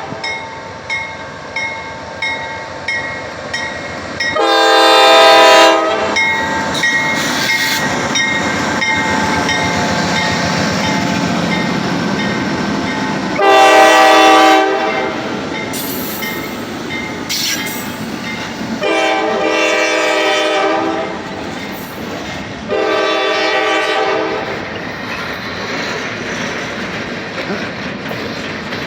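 Norfolk Southern diesel locomotive horn blowing four blasts of about a second and a half each, over the steady rumble and wheel clatter of a slow-moving freight train. A bell dings about one and a half times a second before the first blast.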